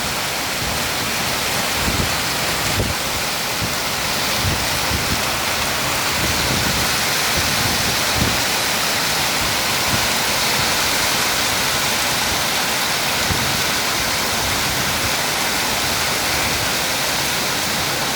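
Heavy storm downpour, a dense steady hiss of rain. Gusts of strong wind buffet the microphone with low thumps now and then, mostly in the first half.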